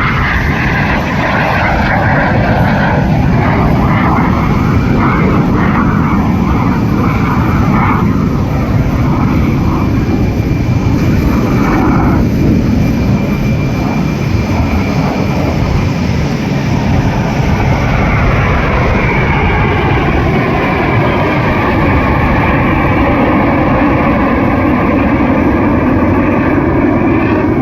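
Aermacchi MB-339 jet trainers of an aerobatic display team flying over: a loud, continuous jet roar, with a sweeping, phasing tone in the second half as the aircraft pass.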